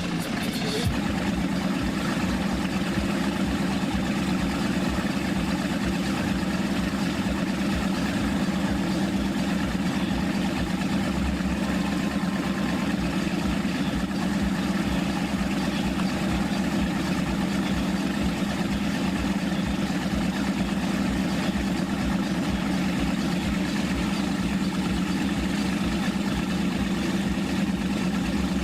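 Chris-Craft boat engine running steadily, a constant low hum that holds the same pitch and level throughout.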